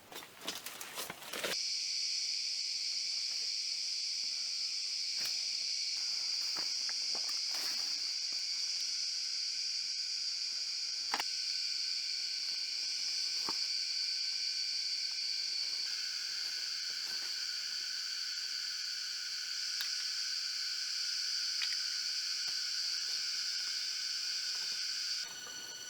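Steady high-pitched drone of forest insects, starting abruptly a second and a half in and cutting off just before the end, with a few faint clicks and knocks over it.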